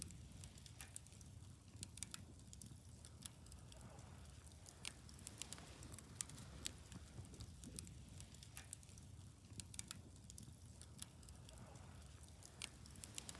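Wood bonfire burning faintly: irregular sharp crackles and pops from the burning wood over a low steady rumble.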